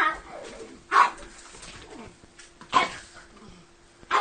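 A dog barking twice, single short barks about two seconds apart.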